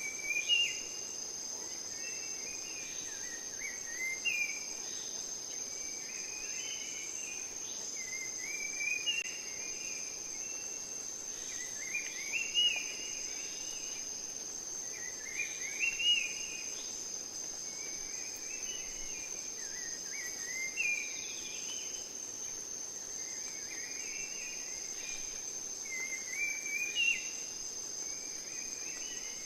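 Rainforest ambience: a steady, high-pitched insect chorus, with a bird singing a short phrase that jumps up and down in pitch and comes back every three to four seconds.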